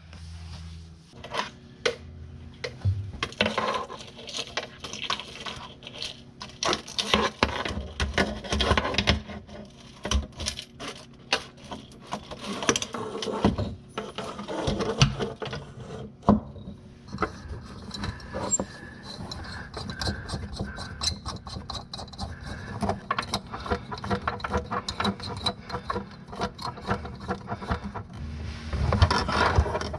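Many sharp metallic clinks, taps and knocks of hand tools and plumbing parts being handled while working on a kitchen faucet, over a faint steady hum.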